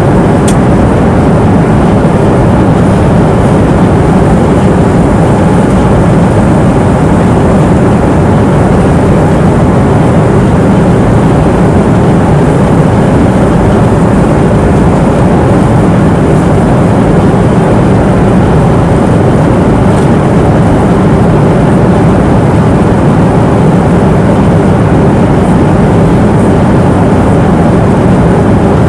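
Steady cabin noise of an airliner in flight: a loud, even rumble and rush of engine and airflow noise heard from inside the cabin, with a few faint ticks.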